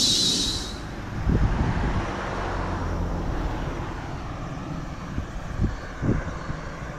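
Vehicle running: a steady rumble with a few low thumps, opening with a brief high hiss and a thin high squeal under a second long.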